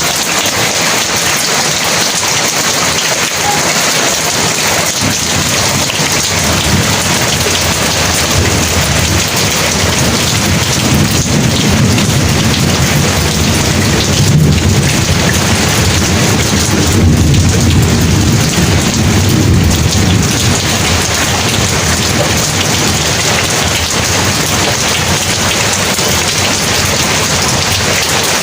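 Heavy rain pouring steadily. A long, low roll of thunder builds about a quarter of the way in, is loudest a little past the middle, and dies away.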